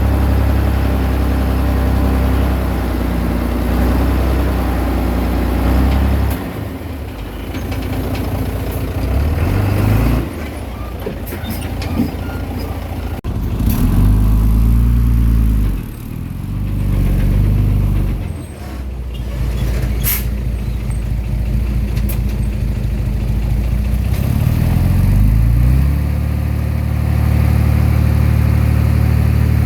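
Komatsu D20P bulldozer's diesel engine working hard. Its pitch repeatedly sags and climbs back as the engine loads and revs while the blade pushes soil, with a few sharp knocks in between.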